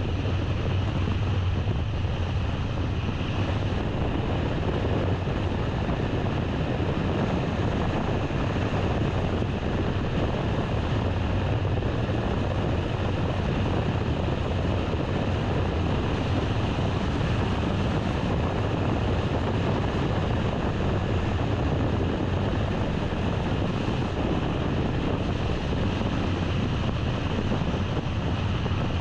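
A car driving along: steady wind and road noise with a low rumble, even throughout.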